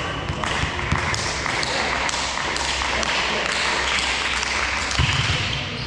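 Volleyball-match sports-hall noise: a steady wash of voices and movement with scattered taps and thuds, and a heavier thud about five seconds in.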